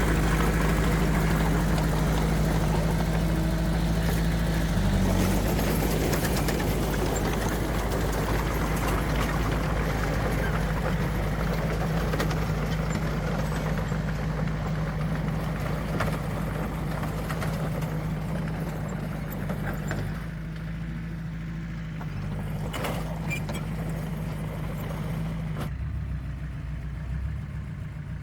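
Heavy diesel engine of earthmoving machinery running steadily, growing gradually quieter, with the higher-pitched noise dropping away twice in the second half.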